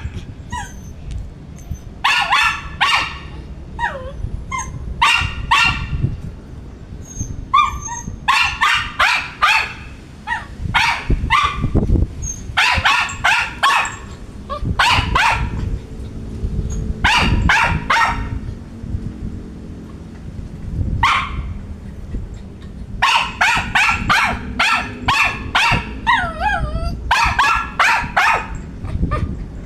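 Poodle barking in repeated rapid bursts of several barks each, with short pauses between bursts, and a brief wavering whine near the end.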